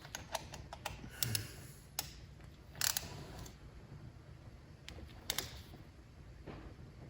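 Scattered light clicks and taps of small tools being handled during engine work, with a short clatter about three seconds in and a sharper click a little after five seconds.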